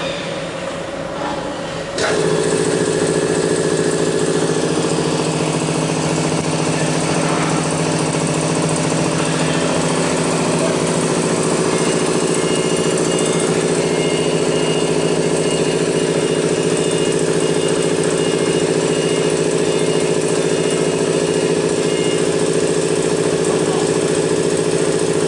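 6 kW air-cooled spindle of a CNC router running at a steady high speed during V-bit carving, a steady whine. About two seconds in it jumps abruptly to a louder, steadier hum.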